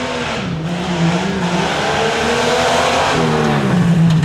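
Tuff truck's engine revving hard under load, its pitch climbing to a peak about three seconds in and then dropping back, with a steady rush of noise over it.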